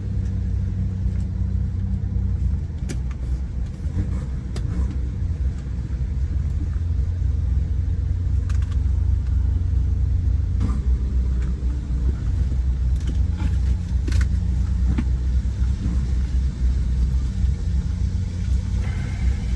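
Car engine and road rumble heard from inside the cabin, a steady low drone with a few faint clicks.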